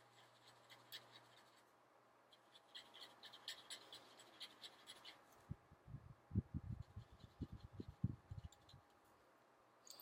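Faint scratching strokes of coloring in, quick and repeated, followed about halfway through by a series of soft low knocks from handling the item being colored.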